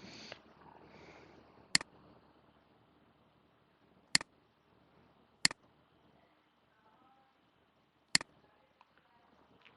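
Computer mouse buttons clicking: four sharp clicks a second or more apart, a couple of them doubled, against quiet room tone. A brief soft noise comes at the very start.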